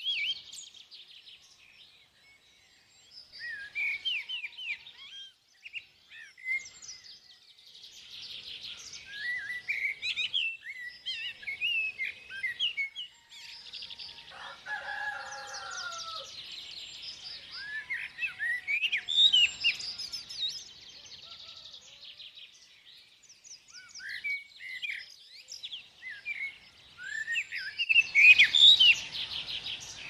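Several wild birds chirping and singing in short phrases of quick, rising and falling notes, with brief gaps between them. A lower, drawn-out call comes about halfway through, and the busiest, loudest chirping comes near the end.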